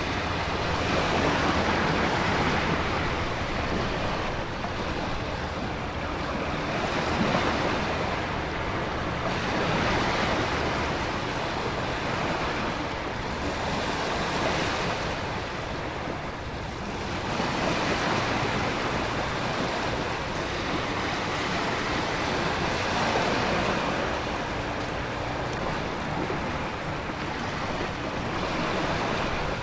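Stormy ocean ambience: a continuous rush of wind and heavy rain with heavy surf, the roar swelling and easing every few seconds as waves surge in.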